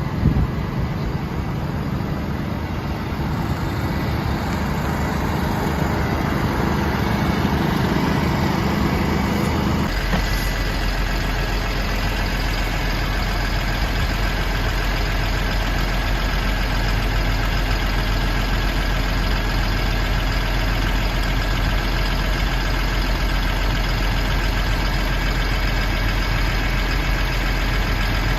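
Diesel engine of a Kalmar terminal truck idling steadily; about ten seconds in its note shifts abruptly to a deeper, steadier hum.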